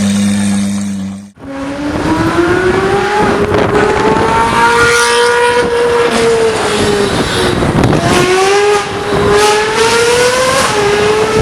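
A supercar engine revving hard: its pitch climbs for several seconds, falls away once, then climbs again. Before it, a steady low hum cuts off about a second in.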